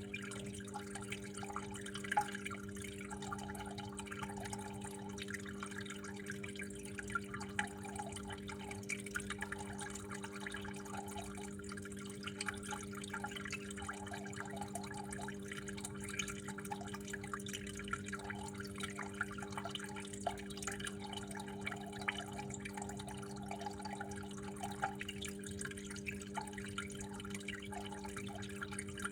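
Water trickling and dripping steadily in many small, quick drops, over a constant low hum.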